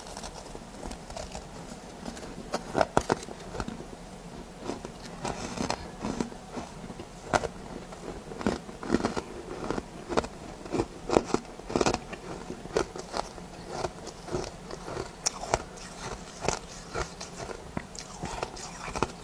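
A person biting and chewing powdery soft ice scraped from freezer frost, in a string of irregular crunches.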